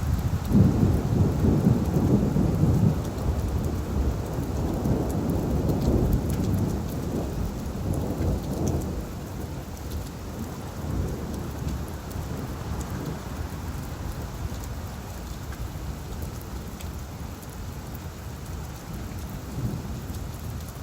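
Rain falling on leaves, with scattered drop ticks and a low roll of thunder that is loudest in the first few seconds and slowly dies away.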